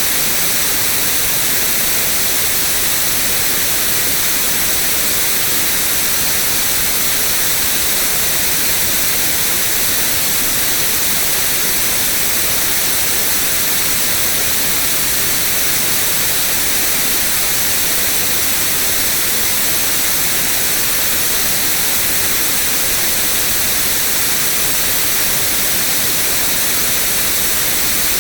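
Steady, unchanging white noise: an even hiss across all pitches, strongest in the highs.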